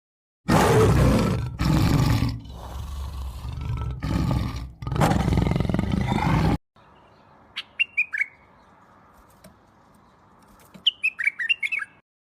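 A large animal roaring in a few long, loud calls that cut off abruptly. A small bird follows, chirping in short falling notes in two quick bursts.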